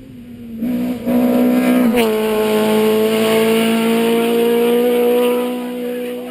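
Rally car engine running hard at high revs: it shifts up with a sharp crack about two seconds in, then pulls again with the pitch climbing slowly, and fades as the car goes away.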